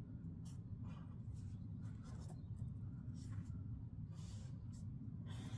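Faint scratching strokes of lines being drawn on sheet styrene, several short separate strokes over a low steady hum.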